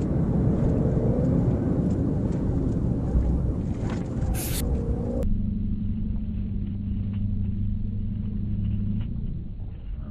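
Steady rumble of a vehicle at speed, road and engine noise from a car in a high-speed pursuit. About halfway through it changes abruptly to a duller, steadier low drone.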